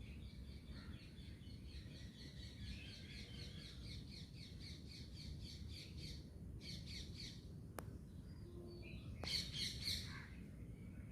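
Bird chirping in a rapid high trill, about six or seven notes a second, for roughly six seconds. Then come a short burst of chirps and a louder one about nine and a half seconds in.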